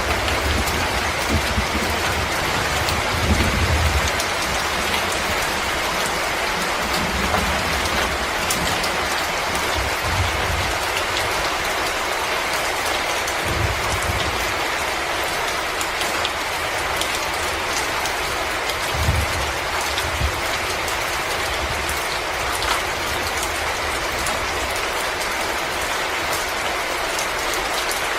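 Wood fire crackling in a fireplace: a steady hiss dotted with small sharp pops, with a low rumble every few seconds.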